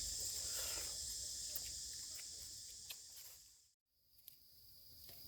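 Forest insects chirring steadily in a high-pitched chorus, with a few faint clicks. It fades and cuts out briefly a little past halfway, then resumes at a slightly lower pitch.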